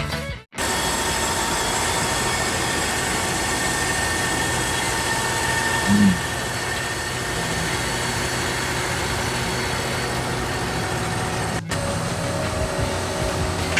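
Horizontal milling machine running steadily as it cuts the cast iron of an axle housing. It gives a constant hum with a few held tones, broken by a short gap near the start and another near the end.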